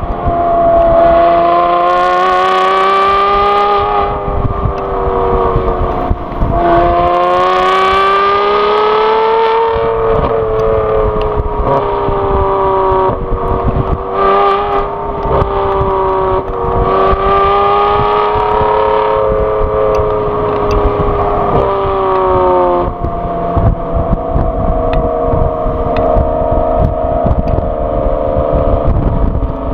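Modified 2014 Aston Martin V12 Vantage S's V12 engine and exhaust, heard close up at the tail while the car is driven. The pitch rises under acceleration, drops back about six seconds in and rises again, holds through the middle, then drops about three-quarters of the way through to a lower, steady cruise.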